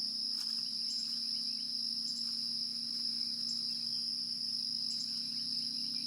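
Insect chorus, crickets trilling in one continuous high pitch, with short double chirps about once a second over it and a faint steady low hum underneath.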